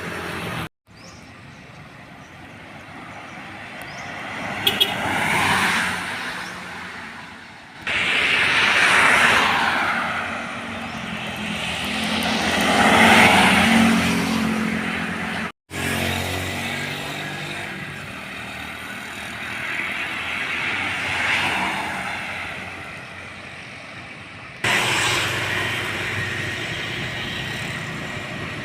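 Heavy trucks passing on a road, each one's diesel engine and tyre noise rising and fading as it goes by. The sound cuts off abruptly a few times, where one roadside clip gives way to the next.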